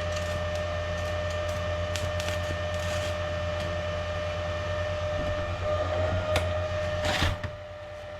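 Arc welder humming steadily, with scattered sharp crackles and a short louder rasp about seven seconds in, after which the sound drops away.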